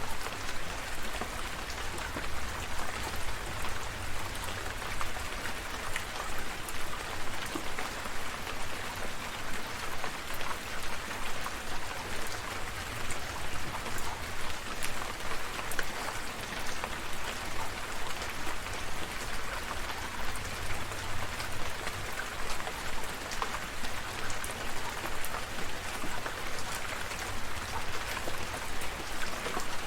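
Steady rain falling, with many distinct drops ticking on a surface close by.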